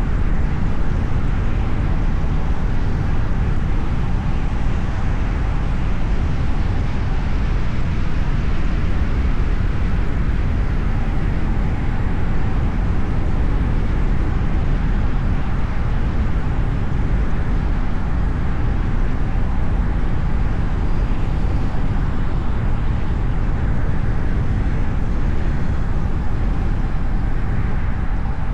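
A car driving on city roads: a steady rumble of tyre and road noise, with no distinct events.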